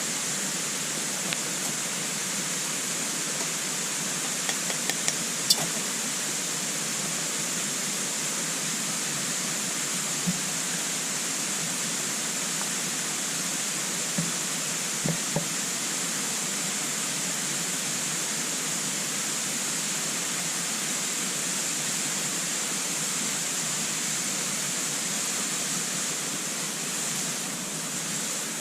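Scattered sharp crackles and pops from wood burning in a compact wood-burning stove: a quick cluster about five seconds in, with the loudest pop at its end, then single pops every few seconds. Under them runs a steady rushing hiss.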